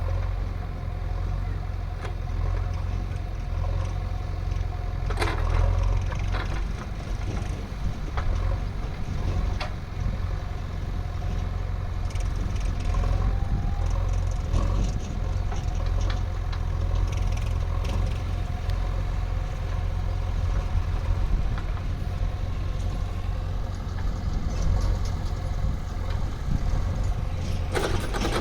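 Heavy diesel engine running steadily at a low rumble, with a few short knocks and clatters.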